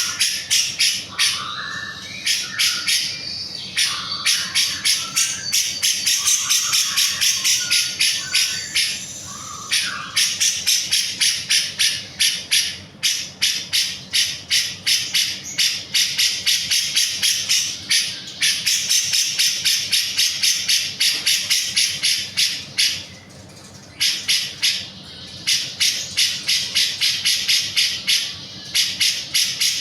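Cucak jenggot (grey-cheeked bulbul) calling in long runs of rapid, sharp, high notes, about four or five a second, broken by brief pauses. In the first ten seconds a lower warbling phrase and a few held whistles run underneath.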